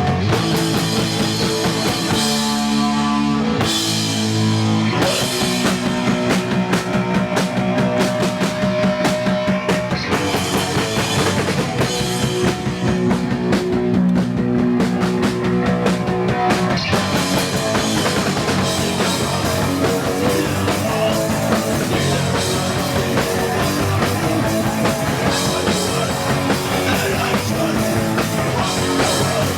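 A punk rock band playing live, with drum kit and guitar, loud and steady throughout. The cymbals thin out briefly a couple of seconds in, leaving the low guitar or bass notes to the fore.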